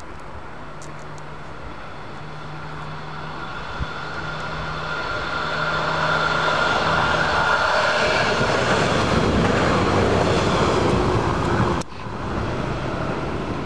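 Siemens Desiro diesel multiple unit approaching and passing close beneath, its engine and running noise growing steadily louder for several seconds. The sound cuts off suddenly a couple of seconds before the end.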